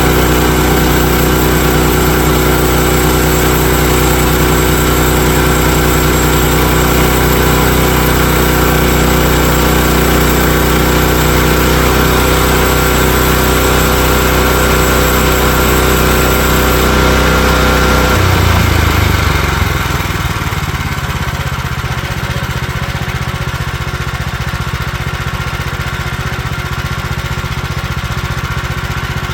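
Small gasoline engine of a portable bandsaw mill running steadily. About two-thirds of the way through, the sound changes and settles into a quieter, steady run.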